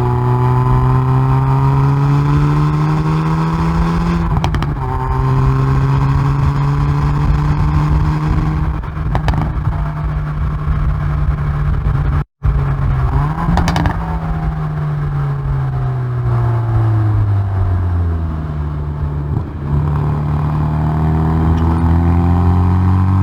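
Hyundai i30N Performance's turbocharged 2.0-litre four-cylinder heard through its exhaust at the rear bumper under hard track driving: the engine note climbs, drops sharply at an upshift about four seconds in, and climbs again. Later the note falls steadily for several seconds as the car slows, then rises again toward the end. The sound cuts out for a split second a little past halfway.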